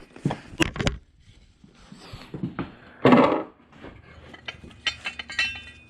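Hand tools and small metal parts being handled: scattered clicks, taps and clinks, with a louder clattering burst about three seconds in. These are the sounds of work on a freshly removed accelerator pedal position sensor and its bolts.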